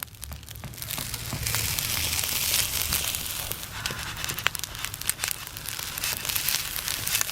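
Crinkling and rustling of something being handled, with many small clicks scattered throughout; the rustling is loudest between about one and three seconds in.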